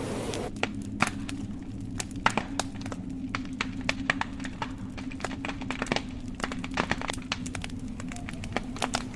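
Wood fire crackling: irregular sharp pops and cracks, several a second, over a low, steady rush of burning.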